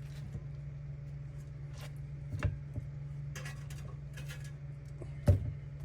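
Kitchen handling sounds: soft clicks and two sharper knocks, the second the loudest, of chicken pieces and utensils against a cast iron pan, over a steady low hum.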